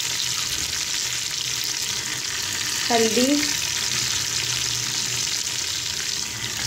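Onions, tomato and green chillies frying in hot oil in a pressure cooker over a medium flame: a steady sizzle.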